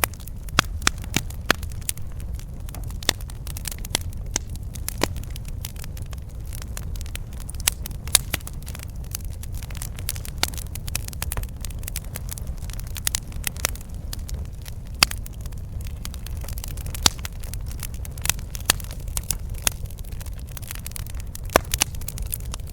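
Campfire burning: irregular crackling and sharp pops of burning wood over a steady low rumble of the flames.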